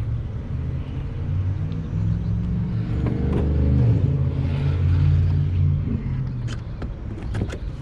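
Low road and tyre rumble of a moving Tesla Model 3, an electric car with no engine note. The rumble swells in the middle, and a few sharp clicks come near the end.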